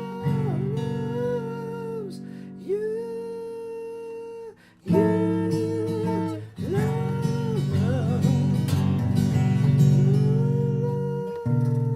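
Music: an acoustic guitar strums chords under a held, wordless melody line. The chords break off briefly about five seconds in, then come back loudly.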